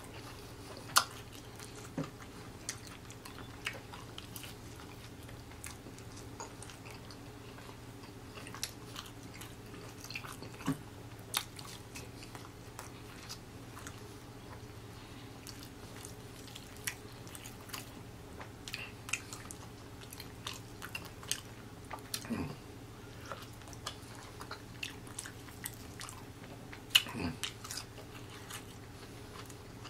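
Close-miked chewing of fried chicken: scattered wet mouth clicks and smacks, a few sharper than the rest, over a steady low hum.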